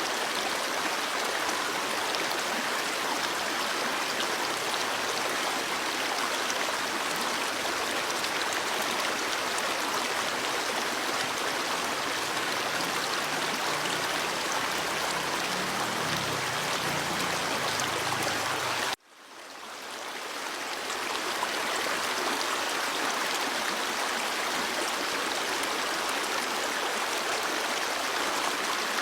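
Stream water flowing steadily over rocks. It breaks off for a moment about two-thirds of the way through, then swells back.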